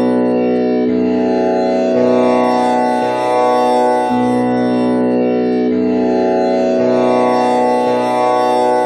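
Tanpura drone on B, tuned with komal Ni (flat seventh), its strings plucked one after another in a cycle that repeats about every five seconds, each note buzzing and sustaining into the next.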